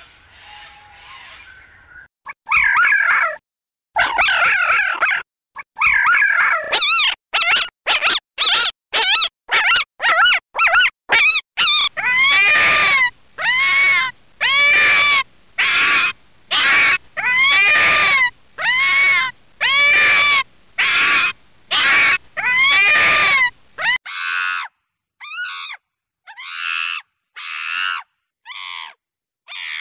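Red fox yelping and barking: a quick run of short yips, then a steady series of arched, bark-like calls about one a second. About four-fifths of the way through it gives way to a different run of shorter, higher, shriller calls.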